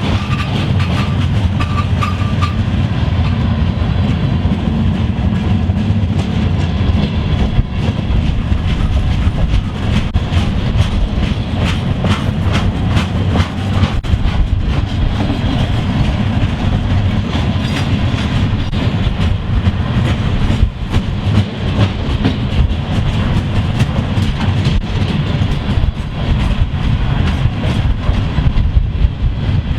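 A train passing close by, its cars rolling over the rail joints with a steady rumble and continual clickety-clack.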